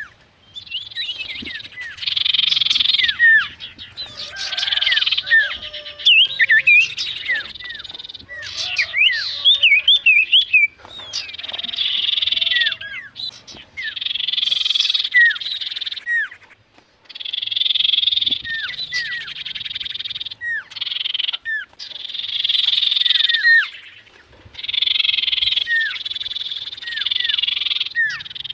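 Common iora calling over and over: short rising and falling whistled notes mixed with buzzy trills of a second or two, repeated every couple of seconds.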